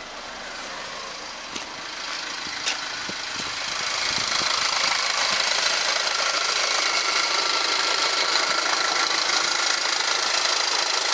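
2017 LDV G10 van's 1.9 turbo diesel engine idling, growing louder over the first few seconds and then holding steady.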